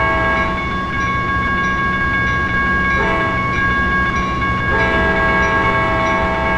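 Locomotive air horn sounding a long chord throughout, some of its lower notes dropping out twice and coming back, over the rumble of a passing train.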